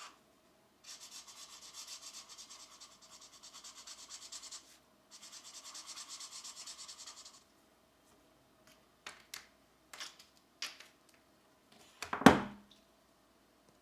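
Coloured pencil shading on paper in quick back-and-forth strokes, about four or five a second, in two long spells with a short break between them. Then a few light clicks and one louder knock near the end.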